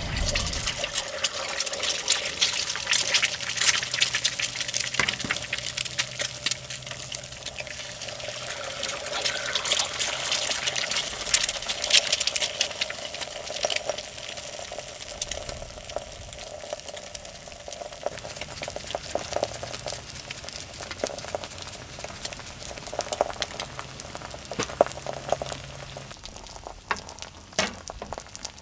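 Food sizzling in a hot pan: a dense crackle that thins out over the second half.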